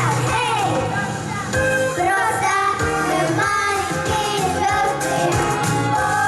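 A children's vocal ensemble sings a bright pop song in unison over a backing track with a steady drum beat.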